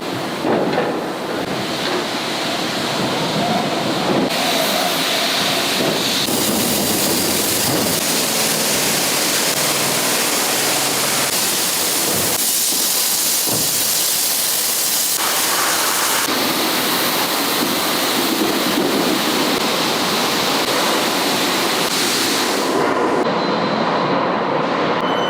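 Loud, steady rushing noise of steel-mill machinery, changing abruptly in character several times.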